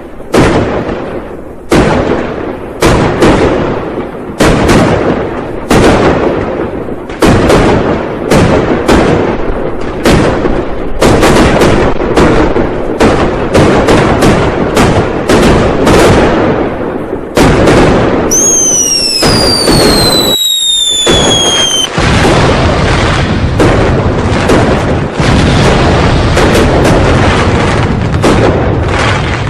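New Year firecrackers and fireworks going off: a run of loud bangs, one to a few a second, growing denser. About two-thirds of the way through, a falling whistle sounds over the bangs. After that the bangs merge into a continuous crackle.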